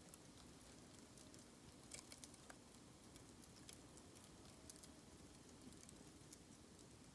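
Faint crackling of a bamboo fire: irregular small pops and ticks over a low steady hiss.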